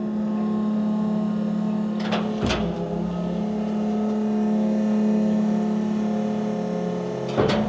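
Electric garbage compactor truck's hydraulic packing mechanism running in continuous mode as the scraper and slide plate cycle, with a steady hum. Two knocks come close together about two seconds in, and another comes near the end.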